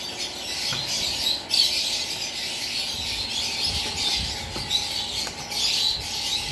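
Many small birds chirping and squawking at once, a dense, continuous chatter.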